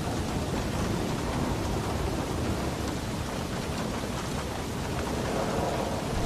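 Heavy rain falling on a roof, a steady hiss with a low rumble underneath.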